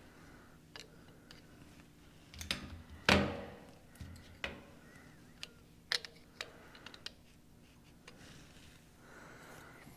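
Metal parts and hand tools being handled and set down on a workbench while a diesel injection pump is taken apart: scattered clicks and knocks, with one loud clank about three seconds in that rings briefly.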